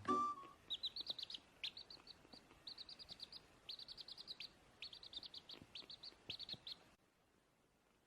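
A small bird chirping in quick runs of short, high notes, several notes a second, with brief pauses between runs. The chirping stops abruptly about seven seconds in.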